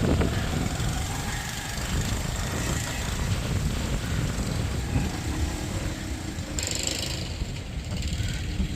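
Strong storm wind gusting against the microphone: a low, uneven rumble with a steady hiss, and a brief louder hiss about seven seconds in.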